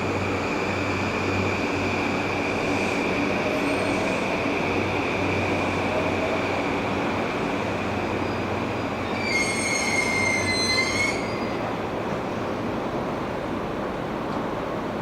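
Electric commuter train running on the rails, a steady rumble with a high whine, and a high metallic wheel squeal lasting about two seconds near the middle.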